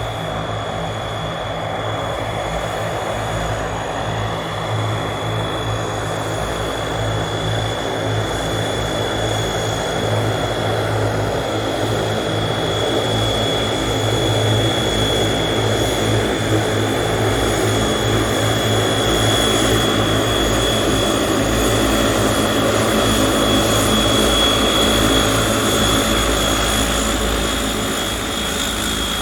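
The Rolls-Royce Dart RDa-10/1 turboprop engines of a YS-11 are running with a steady high-pitched whine over the propeller drone. The sound grows slowly louder through the clip and eases a little near the end.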